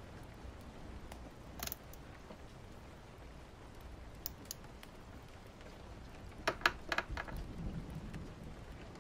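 Steady rain ambience, with a few short handling sounds from annotating a book over it: a brief scratch about a second and a half in, two sharp clicks around four seconds, and a quick run of clicks about six and a half seconds in.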